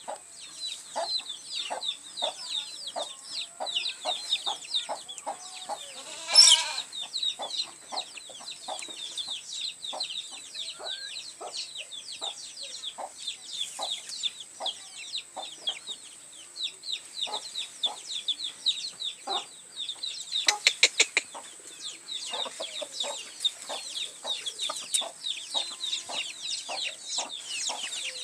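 Chickens clucking and chirping, many short calls one after another, with one loud call about six seconds in and a quick run of calls around twenty seconds in.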